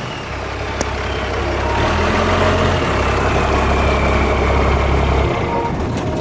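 A motor vehicle's engine running loud, with a heavy low rumble and a dense rushing noise over it.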